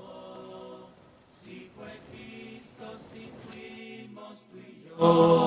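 Unaccompanied hymn singing: quiet held sung notes, then the voices come in much louder near the end.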